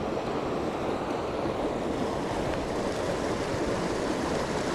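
Mountain stream water rushing, a steady even wash of noise.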